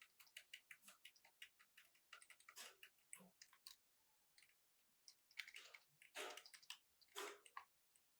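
Faint, irregular clicks and a few short rustling scrapes, with the clicks thickest around the middle and the rustles near the end.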